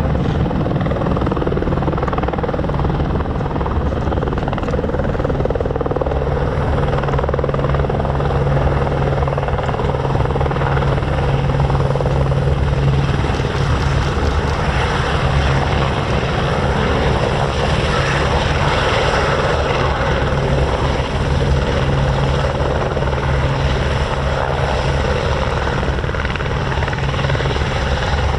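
Airbus H125 helicopter's single-engine turbine and main rotor running steadily and loudly, a deep rotor hum under a continuous rushing whine.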